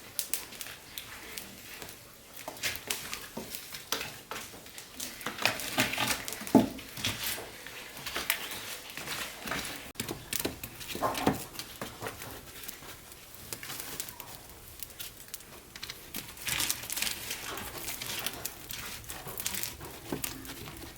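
Irregular rustling, crinkling and light knocks, as of things being handled in a small room, with the sharpest knocks about six and eleven seconds in.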